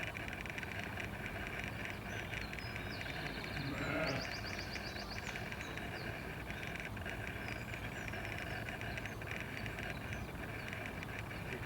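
A single animal call, the loudest sound, about four seconds in, over a steady hiss, with a few brief high chirps around it.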